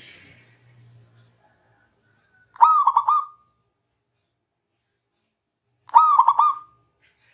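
Zebra dove (perkutut) cooing: two short phrases of quick, rapidly repeated notes, each about a second long and about three seconds apart.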